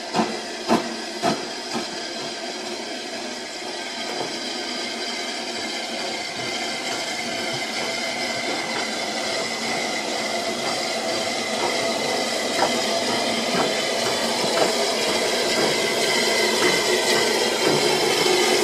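Steam locomotive hissing steam, with train running noise that grows gradually louder. A few sharp knocks come in the first two seconds.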